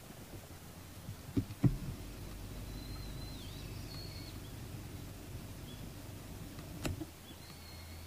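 A wild bird's thin, high, wavering call, faint, lasting about a second and a half from about three seconds in, with a second call starting near the end. A few sharp knocks come at about a second and a half and again just before seven seconds, over a steady low rumble.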